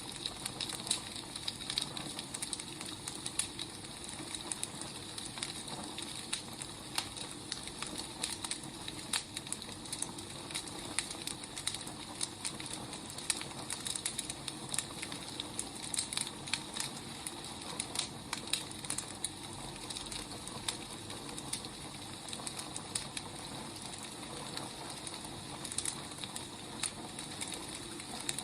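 Wood fire burning, a steady hiss with irregular sharp crackles and pops from the burning logs.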